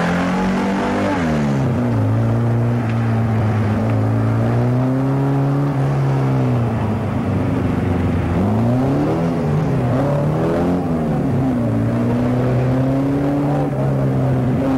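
Opel Kadett C coupé engine revving hard on a slalom run. Its pitch holds steady for a few seconds at a time, dropping and climbing again about a second in and again from about seven to eleven seconds in as it slows and accelerates between the cones.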